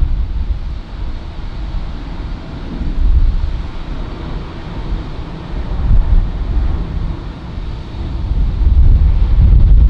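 Wind buffeting the microphone in uneven gusts, over the steady hiss and rumble of a jet airliner's engines as it comes in to land.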